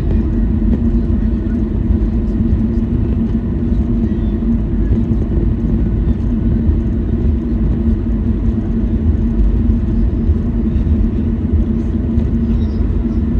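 Cabin noise inside a Boeing 737-800 on the ground after landing: a steady low rumble with a constant hum, typical of taxiing with the CFM56 engines at idle.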